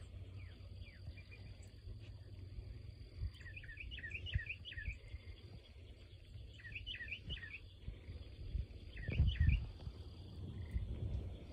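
A songbird singing three short bursts of rapid, repeated notes, over a steady low rumble on the microphone.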